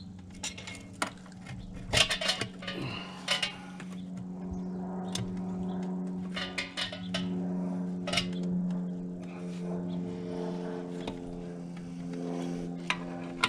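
Metal tools and parts clinking and knocking in irregular bursts, loudest about two and three and a half seconds in, over a steady low hum.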